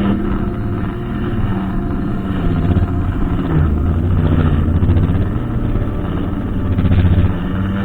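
Brushcutter engine running continuously, its speed and pitch rising and falling as it cuts.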